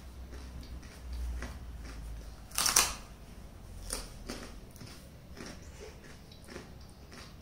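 Biting and chewing a crisp chikki laddu: scattered crunches, with one louder crunch about three seconds in.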